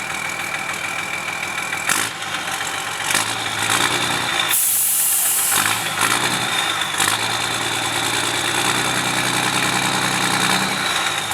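Tow truck engine pulling under load on a heavy rock, its note strengthening about three seconds in and then holding steady, with a thin high whine over it. A short loud hiss about four and a half seconds in.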